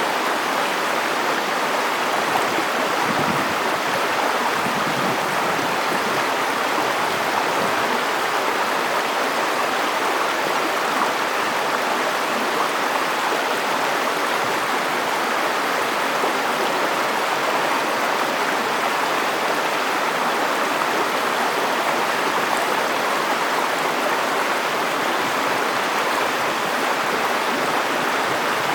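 River water flowing over rocks: a steady, unbroken rushing.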